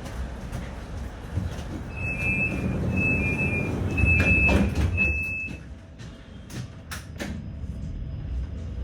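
Tram running between stops, its rumble swelling about four seconds in, then easing off. Four short two-note electronic beeps sound between about two and five and a half seconds in, and a few sharp clicks follow near the end.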